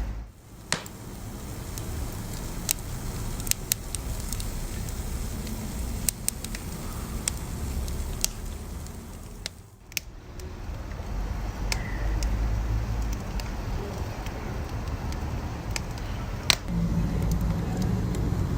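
Wood fire crackling in a fireplace: scattered sharp pops and snaps over a low, steady rumble of the flames. The sound briefly drops away twice, at the start and about ten seconds in.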